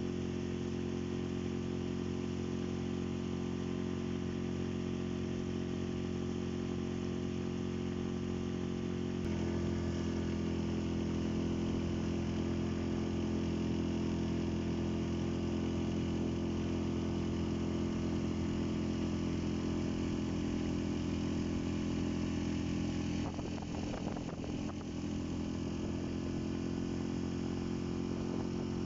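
An engine running steadily at an even speed, a little louder from about nine seconds in, with a brief rough disturbance a little before the end.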